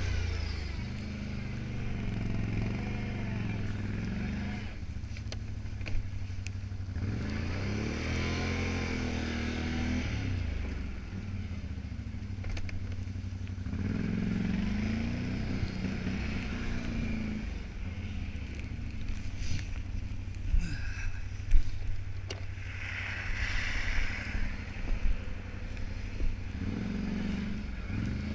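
Can-Am 570 XT ATV's V-twin engine revving up and easing off again and again while pushing snow with a plow, with scattered knocks and clatter from the plow in the second half.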